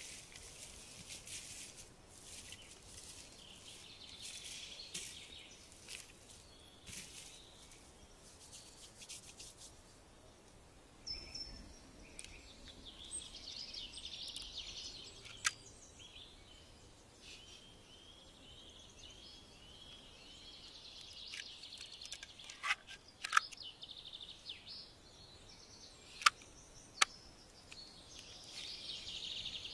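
Faint bird chirping, with a run of quick repeated chirps in the middle and several sharp clicks in the second half.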